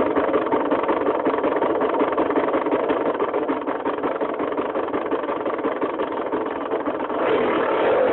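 Honda CRM two-stroke motorcycle engine running steadily near idle, getting a little louder about seven seconds in.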